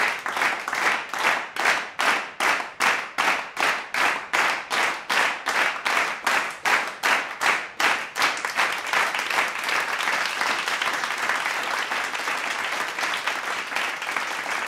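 Spectators clapping together in a steady rhythm, about three claps a second, which breaks into loose, scattered applause about eight seconds in.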